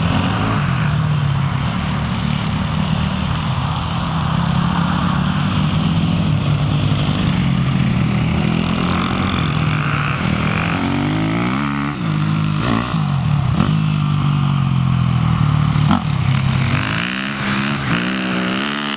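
Motocross dirt bike engines running and revving, the pitch rising and falling with the throttle, with sweeping pitch changes between about 11 and 14 seconds in, as of bikes passing close by.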